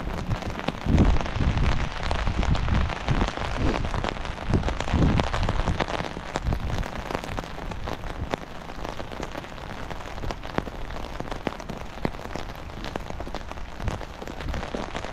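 Steady rain pattering on a fabric umbrella canopy just overhead: a dense hiss of drops with many sharp single hits. A few low rumbles come and go in the first five seconds.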